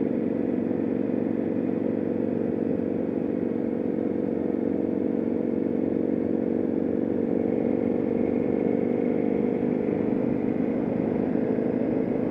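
Motorcycle engine running at steady, moderate revs during a slow lap, heard from on the bike.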